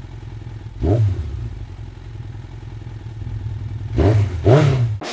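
Motorcycle engine idling, with a quick rev about a second in and two more close together near the end.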